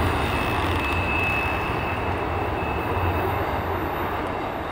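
MARC commuter train's MP36 diesel locomotive running as the train approaches: a steady low rumble, with a thin high whine held for a few seconds in the middle.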